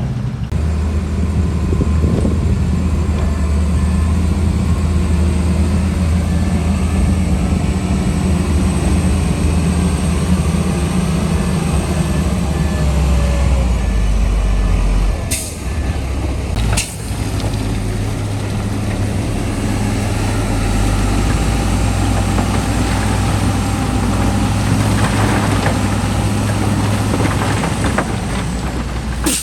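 Heavy diesel earth-moving machinery running steadily under load, with two brief breaks in the sound about halfway through.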